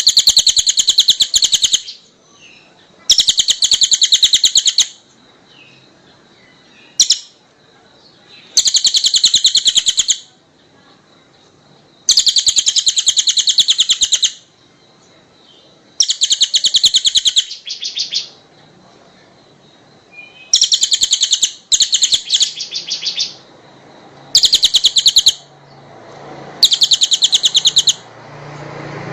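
A small songbird singing loud, very rapid, high-pitched trills in bursts of one to two seconds, repeated about every three seconds.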